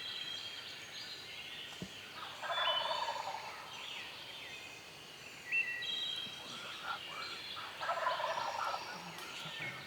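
A wild turkey gobbler gobbling twice, about five seconds apart. Songbirds chirp throughout.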